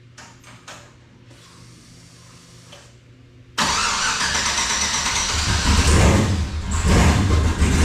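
A turbocharged LS V8 in a race car fires up suddenly about three and a half seconds in, after a few faint clicks, and keeps running loudly with a deep rumble. This is the first start after the turbo's hot-side flex pipes and header flanges were refitted, to check that it still runs.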